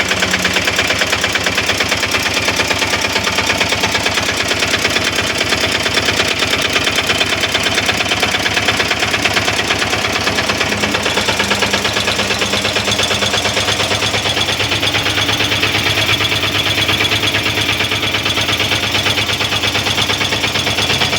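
Diesel engine of a Bajaj auto-rickshaw, newly fitted, running steadily with a fast, even clatter.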